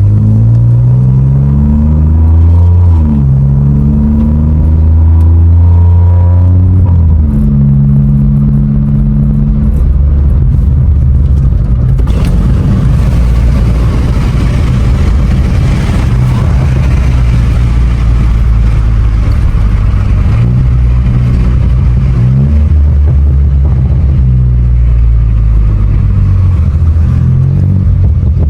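Car engine and exhaust under way, pitch rising and falling through several gear changes in the first ten seconds, then cruising steadily with loud road noise.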